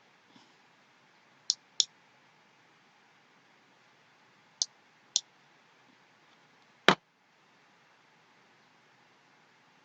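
Computer mouse clicking: two quick pairs of clicks, then one louder single click about seven seconds in, over a faint steady hiss.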